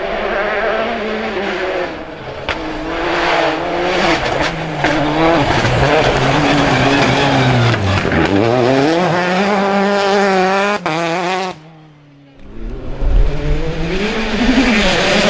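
World Rally Car engines, 1.6-litre turbocharged four-cylinders, revving hard at full throttle, the pitch falling and climbing repeatedly as the cars brake, shift and accelerate. Near the end the sound drops away briefly before another car comes in loud.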